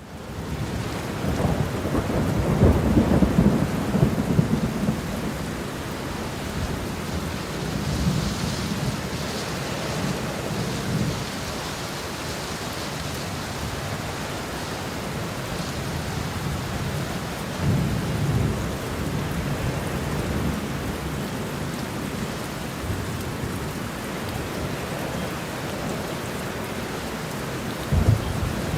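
Steady rain with low rolls of thunder: the rain hiss runs on evenly while rumbles swell up several times, the strongest a couple of seconds in, others around a third of the way through, past the middle and at the very end.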